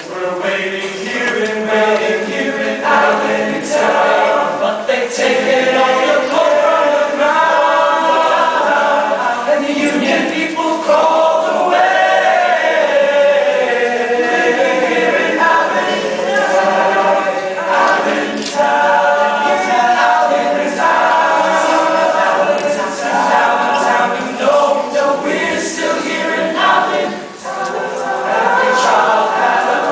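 High school show choir singing in several parts. The full choir comes in loudly at the start and keeps singing throughout.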